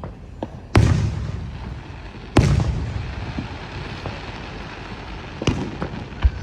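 Fireworks going off: two loud booms about a second and a half apart, each trailing off in a long rumbling echo, then a smaller bang near the end, with scattered pops and crackle between.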